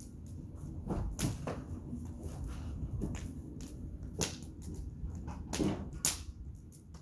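Outdoor wood fire crackling, with a handful of sharp, irregularly spaced pops and snaps over a low steady rumble.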